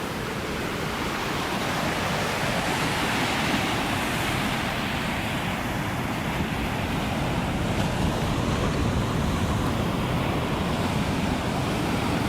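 Ocean surf: a continuous wash of breaking waves, swelling slightly over the first few seconds and then holding steady.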